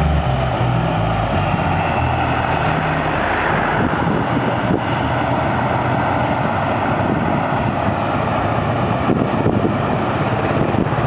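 Air France Airbus A340-300's four CFM56 jet engines at takeoff power, a loud, steady rush of jet blast.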